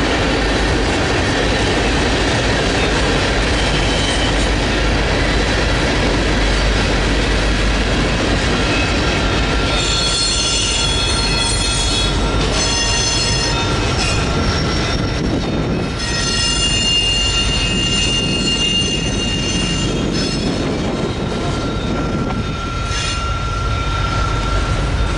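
Railroad cars rolling past close by, steel wheels on rail giving a loud, continuous rumble. High-pitched wheel squeal comes and goes from about ten to twenty seconds in.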